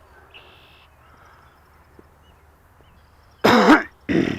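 A crow cawing twice near the end, two loud harsh calls in quick succession, over faint outdoor background noise.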